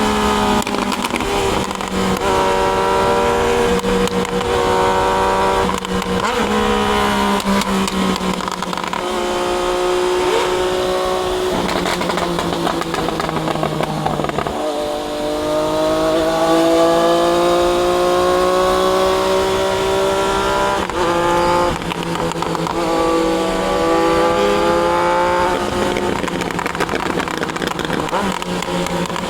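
Triumph Daytona 660's three-cylinder engine pulling through the gears under acceleration. Its pitch climbs steadily in each gear and drops suddenly at each gear change, several times over.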